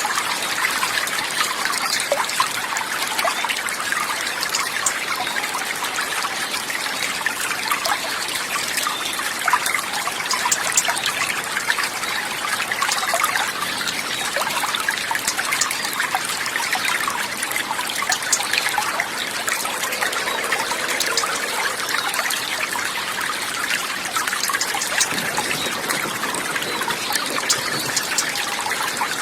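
Running water trickling steadily, with a dense, continuous patter of small splashes.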